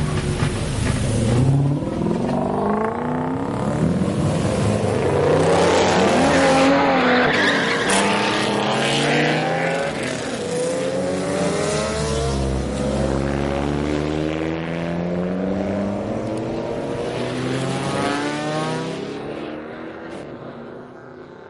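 Car engines revving and accelerating past, their pitch repeatedly climbing and dropping with gear changes, several at once, fading away near the end.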